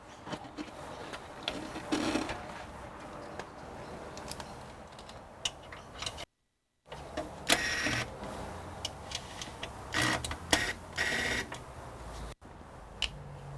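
Hands working on PC parts while a water cooler is taken out: scattered clicks and taps, with several short bursts of scraping and rustling.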